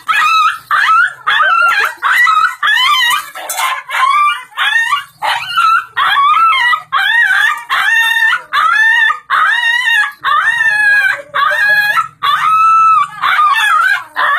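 A dog barking non-stop in quick, high yelping barks, about two a second, with wavering pitch and a few calls held longer.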